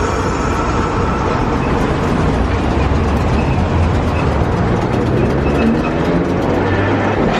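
Streetcar running along its rails, a steady rumble of wheels and motor.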